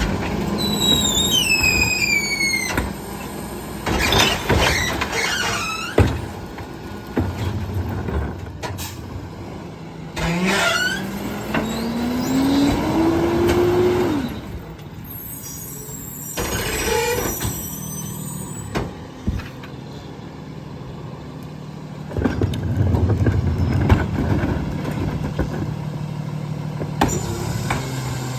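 Garbage truck's packer compacting a heavy load of recycling over its running engine: high falling squeals in the first few seconds, scattered knocks and crunches, and a hydraulic whine that rises in pitch for a few seconds midway and then cuts off.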